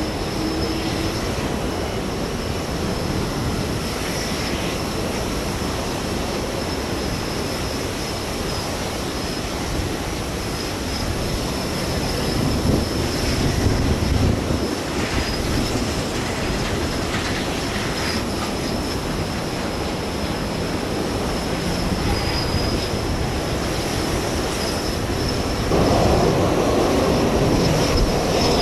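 Jet airliner engine noise from an Airbus A320 on approach, mixed with heavy gusting wind rumbling on the microphone. A thin steady high whine runs throughout, and the sound swells louder about 26 seconds in.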